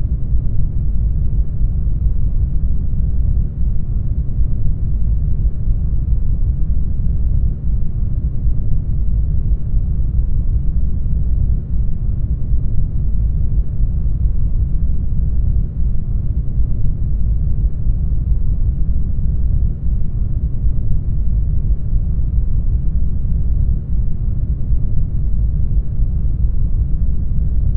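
Brown noise: a steady, deep rushing hiss weighted heavily toward the low end, with a brief dip in level about every four seconds.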